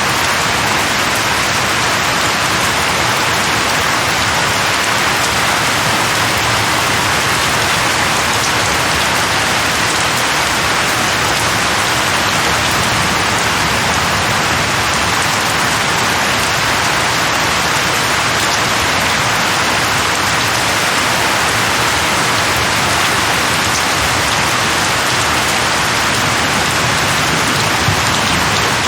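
Steady rain falling on leaves, a dense even patter that holds without let-up.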